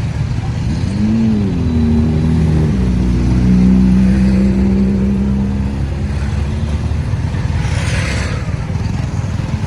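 Road traffic: a vehicle engine revs, its note rising and falling about a second in, then holding steady over a constant low rumble before fading, with a short hiss about eight seconds in.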